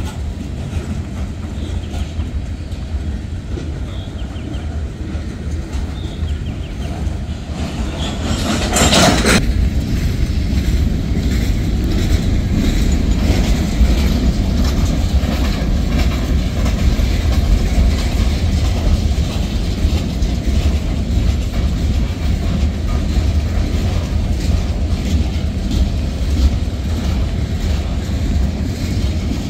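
Freight train cars rolling past: a steady low rumble with the clickety-clack of wheels over rail joints. A brief rushing noise about nine seconds in, after which the rumble is louder.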